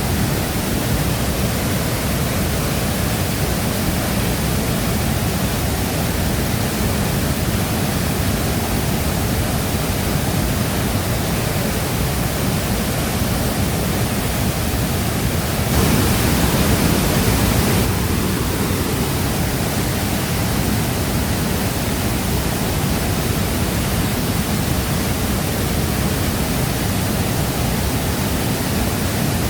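Shifen Waterfall's falling water: a steady, dense rush of water noise, swelling briefly louder for about two seconds past the middle.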